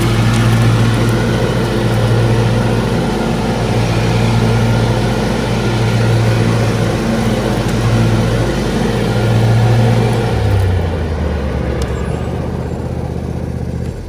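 John Deere D155 riding mower's engine running steadily, then dropping to a lower speed about ten seconds in and cutting off near the end.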